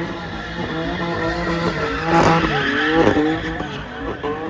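Car tyres squealing, with engines running. Several wavering pitched squeals grow loudest about two to three seconds in.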